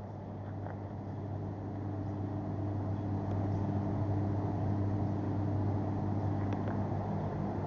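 Motorcycle engine running at a steady speed, growing somewhat louder over the first few seconds.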